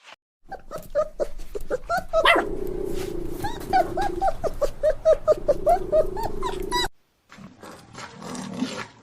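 Dog yelping in many short, quick cries for about six seconds, then cutting off abruptly; a brief, different noisy sound follows near the end.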